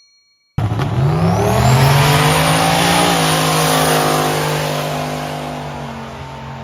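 Drag car accelerating hard down the strip. The engine note climbs, then drops about three seconds in as it goes past, and fades away.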